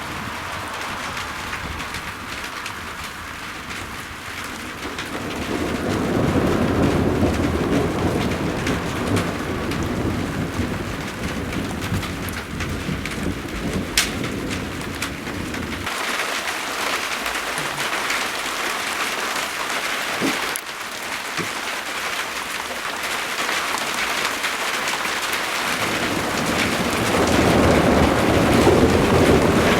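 Steady rain falling, with rolling thunder rumbling low underneath. One long roll builds about five seconds in and cuts off abruptly about halfway through, and a second roll builds near the end.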